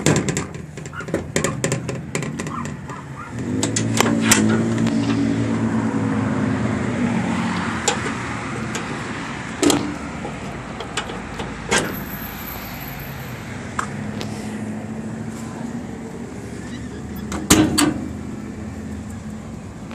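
Engine of a 1996 Chevy 3500's 6.5-litre turbo-diesel V8 running up about three seconds in, then slowly settling lower. Several sharp clicks or knocks sound along the way.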